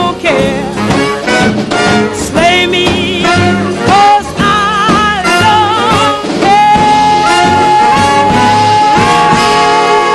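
Swing jazz band with brass playing the closing bars of a song, ending on a long held chord from about six and a half seconds in.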